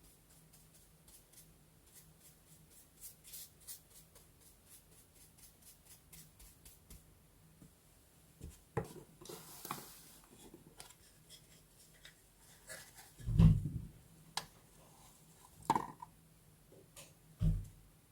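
Paper and stationery being handled at a desk: faint scratches and small clicks, then a few louder knocks in the second half, the loudest two of them heavier thumps, as of objects being set down.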